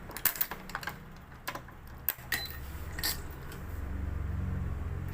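Light clicks and taps of a badminton racket being strung on an electronic stringing machine, a handful of separate strikes. A low steady hum builds up in the second half.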